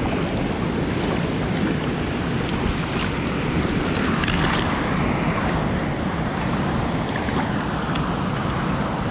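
Steady rush of flowing creek water, with a few faint clicks and knocks about three and four seconds in.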